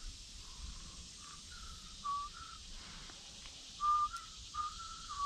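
A person whistling a tune: a run of short held notes stepping up and down in pitch, faint at first and louder about two seconds in and again near the end.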